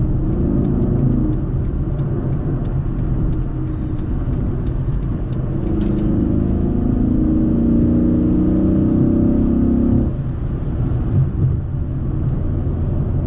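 Dodge Charger SRT8's 6.1-litre V8 running under way, a steady low rumble. It grows louder from about halfway through and drops back abruptly about ten seconds in.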